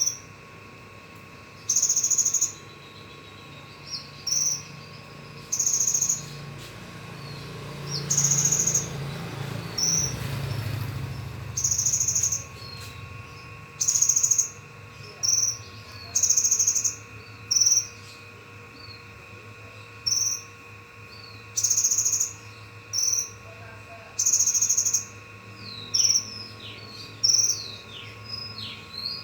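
A bird repeating short, high, buzzy calls every second or two, with quick falling chirps in between and more of them near the end. A steady faint hum lies underneath, and a low rumble swells and fades about a third of the way through.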